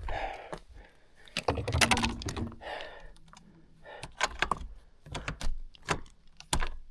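Irregular clicks, clatter and knocks of objects being handled, with a few heavier thumps.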